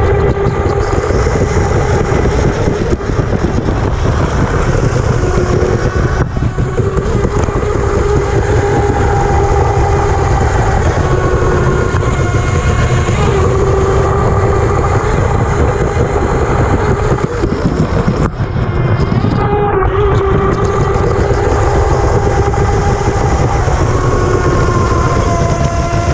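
Electric motor of a 12th-scale R/C unlimited hydroplane whining at speed, heard from inside its cowling, over a steady rush of water and wind noise. The whine's pitch steps up and down several times as the throttle changes.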